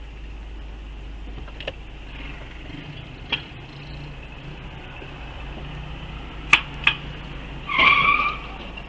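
Steady low drone of a car's running engine and road noise heard from inside the car, with a few sharp clicks. Near the end comes a brief, louder high-pitched tone.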